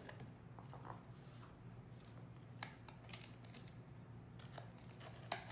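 Faint clicks and light taps of a spoon as half a tablespoon of sugar is measured into a mixing bowl, with a sharper click near the end, over a low steady hum.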